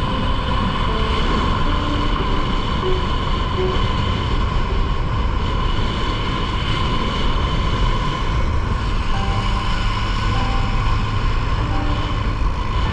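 Motorcycle engine running at a steady cruise on the road, with a constant heavy wind rumble on the microphone.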